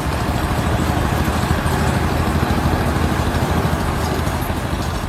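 A large engine running steadily with a fast, rumbling low pulse, mixed with a loud hiss.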